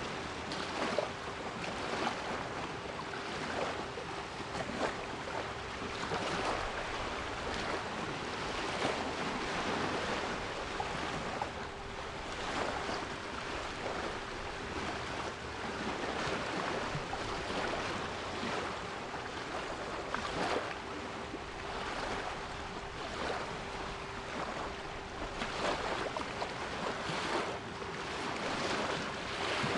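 Sea waves washing in steady surges, with a steady 396 Hz pure tone held underneath.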